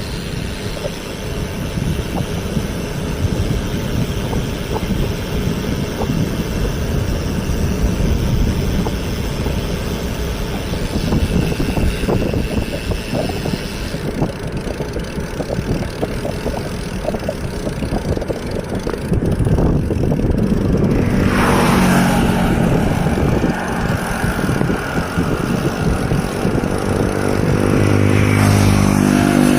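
Steady wind and road rumble from a moving bicycle ride. A motor vehicle's engine passes about two-thirds of the way through, its pitch bending, and another engine hums near the end.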